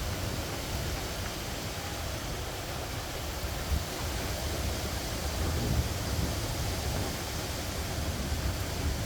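Rain falling steadily in a night storm: an even hiss with an uneven low rumble underneath. There is one brief louder knock just under four seconds in.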